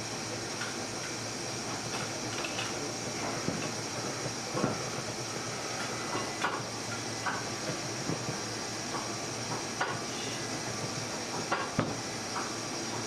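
A steady hiss with scattered light taps and clinks from hand work on a candy bench.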